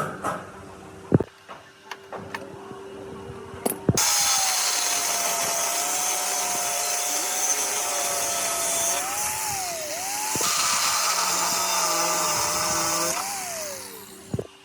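A few clicks and knocks, then a handheld electric power tool starts about four seconds in and runs for about nine seconds. Its motor pitch dips and recovers as it is loaded, then falls away as the tool winds down near the end.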